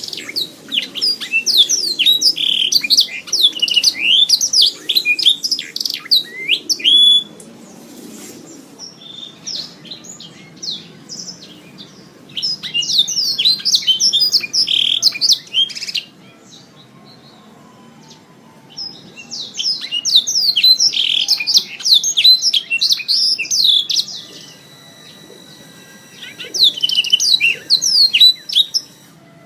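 Domestic canary singing in bursts of rapid trilled phrases, each several seconds long, with short pauses between; the longest burst comes first.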